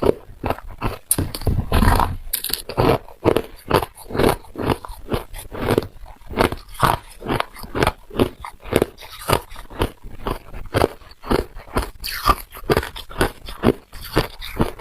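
A person biting and chewing ice close to the microphone: a steady run of loud, crisp crunches, about two to three a second.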